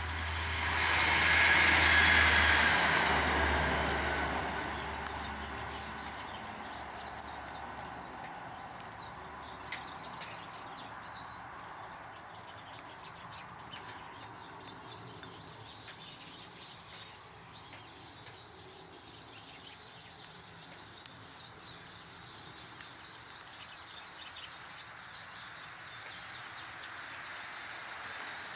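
A vehicle passes, its noise swelling to a peak about two seconds in and dying away over the next few seconds along with a low engine hum. Then quieter outdoor background with small ticks and faint bird calls.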